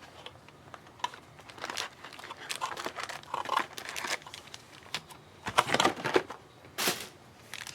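Plastic trading-card wrapping crinkling and tearing as it is opened by hand, in uneven bursts that are loudest a little past the middle and near the end.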